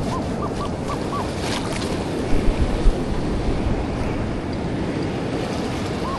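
Surf and wind buffeting the microphone, with a quick run of short chirping beeps from a metal detector in the first second or so as it sweeps over a deep target. There are a few brief low thuds about two and a half seconds in.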